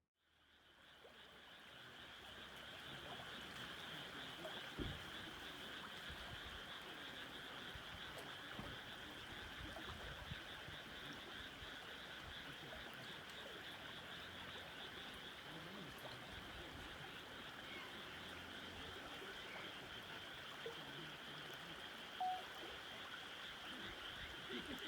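A dense chorus of many frogs calling continuously, fading in over the first few seconds. A soft knock about five seconds in.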